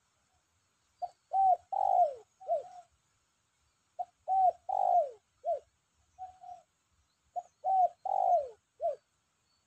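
Spotted dove cooing: three phrases a few seconds apart, each a short note, two longer coos that fall in pitch, and a short closing note. A recently wild-caught bird already calling freely (gacor).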